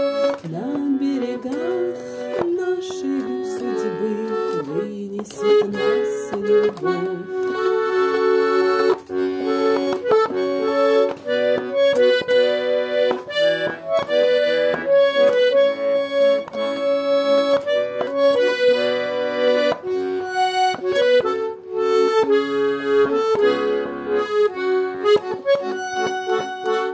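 Garmon (Russian button accordion) playing an instrumental melody over bellows chords: the closing play-out of a song.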